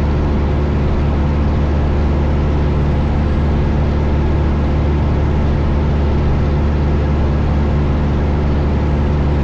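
Steady drone of a 1972 Cessna 172 Skyhawk's four-cylinder Lycoming engine and propeller in flight, heard inside the cabin.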